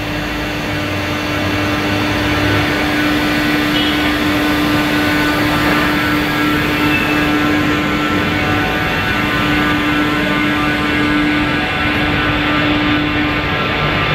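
Planet industrial vacuum cleaner running steadily, a loud even rush of air with a steady motor hum and whine.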